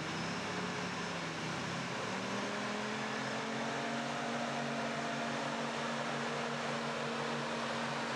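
Mercedes G-Wagen's engine running as the 4x4 drives slowly through mud; its pitch rises about two seconds in and then holds steady, under a steady hiss.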